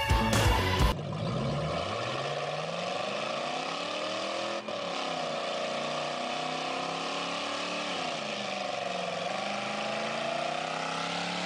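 AMC Gremlin's engine revving hard during a burnout, with the rear tyres spinning. The pitch climbs over the first few seconds, holds, dips about eight seconds in and rises again.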